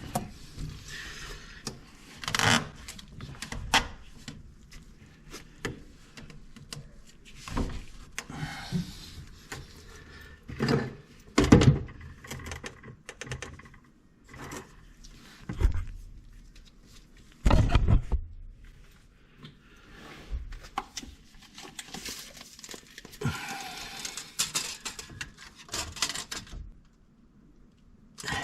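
Irregular knocks, thunks and clicks of handling, with a few heavier thuds about eleven and seventeen seconds in and quiet gaps between.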